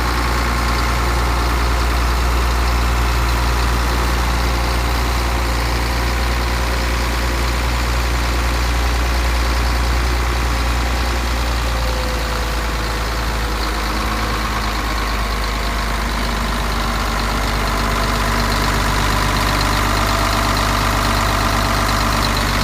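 Caterpillar 140G motor grader's six-cylinder diesel engine idling steadily.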